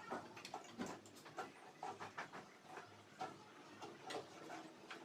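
Faint, irregular small clicks and taps of hand tools and metal parts as a replacement magnetron is fitted into a microwave oven.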